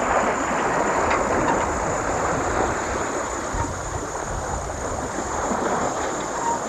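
Steady rushing of wind and water aboard a sailboat under way.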